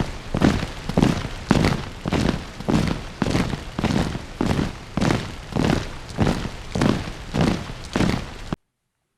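Footsteps walking at a steady pace, about two steps a second, each step a short noisy scuff; they cut off suddenly near the end.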